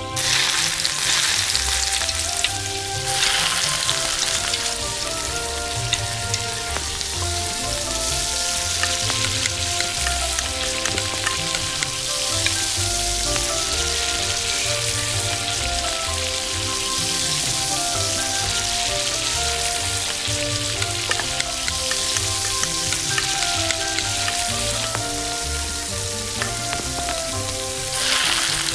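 Oil sizzling and crackling in a miniature steel pot as cumin seeds, then onions and green chillies, fry in it. The sizzle flares just as the cumin seeds go in and again near the end when a spoonful of red masala paste is added.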